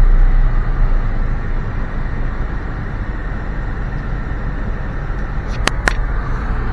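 Car driving slowly, heard from inside the cabin: a steady low rumble of road and engine noise. Two sharp clicks close together near the end.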